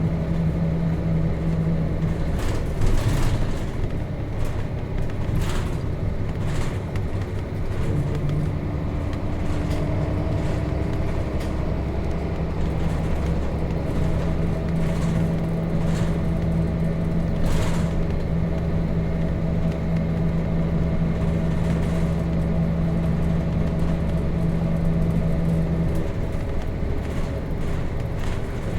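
Nissan Diesel RM bus's FE6 inline-six diesel heard from inside the cabin while driving, a steady drone. The note drops away about two seconds in and returns some six seconds later, then falls again near the end. A few sharp knocks or rattles come early and once around the middle.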